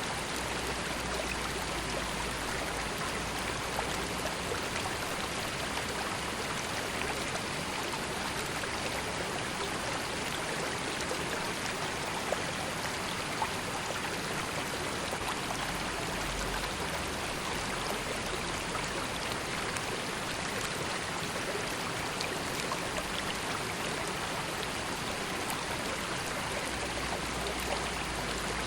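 River water running and burbling steadily, a constant rush of flowing water with small splashes and drips.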